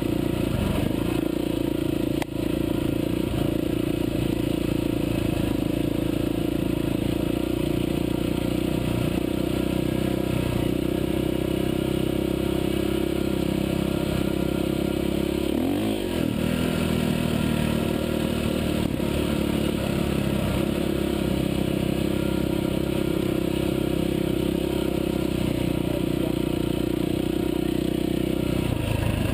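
Off-road motorcycle engine running steadily while riding a dirt trail, heard from the bike itself. About halfway through the engine note dips and climbs back up as the throttle is eased and opened again.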